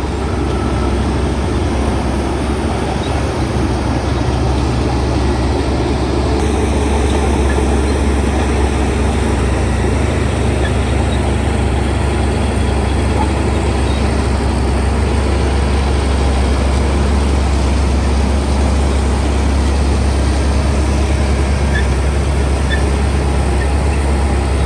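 Shantui bulldozer's diesel engine running steadily under load, a loud, even drone with a strong low hum.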